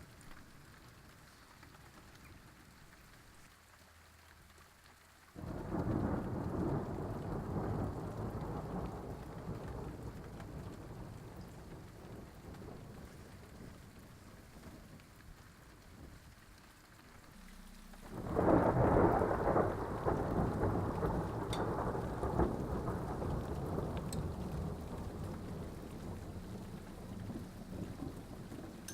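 Two peals of thunder over falling rain. A sudden crash about five seconds in rumbles away over some ten seconds, then a louder one about eighteen seconds in rumbles on, slowly fading.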